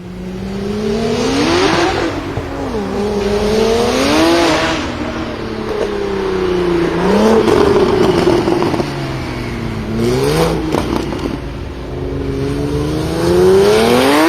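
A BMW performance car's engine being revved about five times, its pitch climbing and dropping with each blip of the throttle, with a few sharp exhaust pops around the fourth rev.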